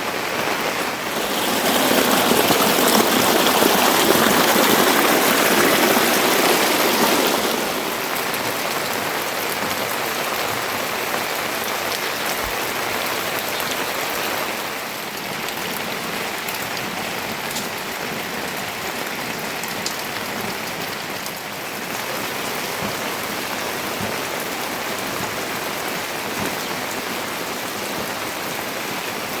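Steady rain falling, louder for the first several seconds and easing slightly about seven seconds in, with faint scattered drop ticks.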